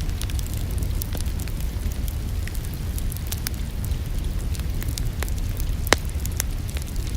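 Wood fire crackling in a fireplace, with scattered pops and one louder pop about six seconds in, over a steady low rumble.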